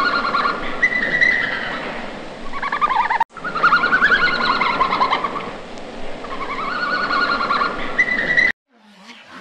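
Red panda giving repeated high, quavering calls, each about a second long. The sound cuts off sharply near the end.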